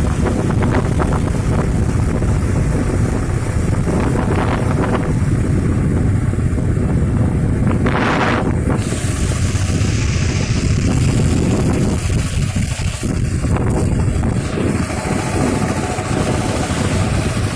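Strong wind buffeting the microphone over a steady low rumble, with a brief rushing sound about eight seconds in.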